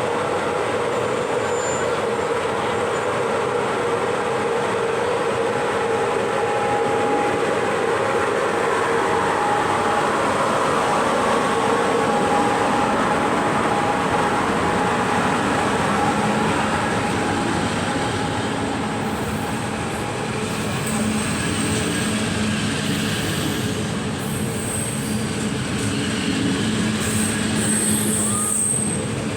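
A train running on the rails: a steady rumble of wheels with a few steady tones over it, continuing without a break.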